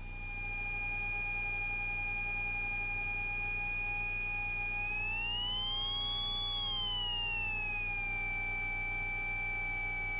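Steady high-pitched electrical whine over a low steady hum, in the cockpit audio of a Cessna 172S running on the ground. About halfway through the whine glides up in pitch and falls back to where it was.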